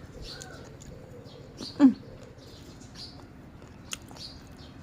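A bird chirping, with short high calls repeating about every second and a quarter. About two seconds in there is a brief, loud sound that drops in pitch, and near the end a single sharp click.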